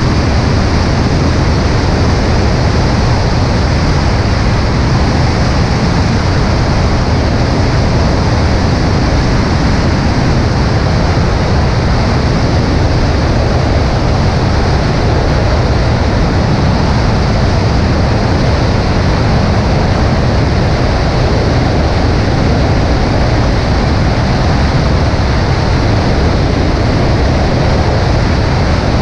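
Steady rush of wind and engine noise from a Cessna 140A light aircraft in flight, picked up by a camera mounted on its right wing. The sound is even and unbroken, with no change in pitch or level.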